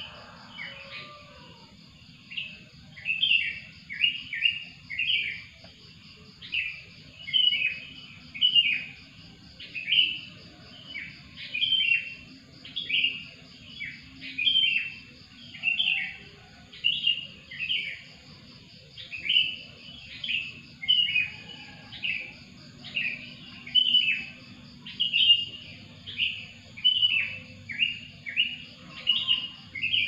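Songbird chirping: short, sharp, falling notes repeated over and over in small groups, with a steady insect trill underneath.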